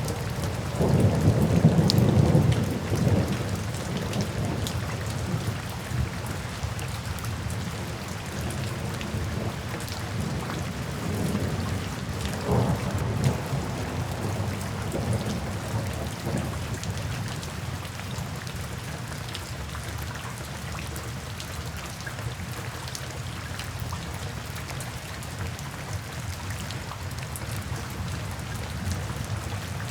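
Steady rain falling, with a low roll of thunder about a second in that fades over the next couple of seconds, then rain alone with a faint low rumble.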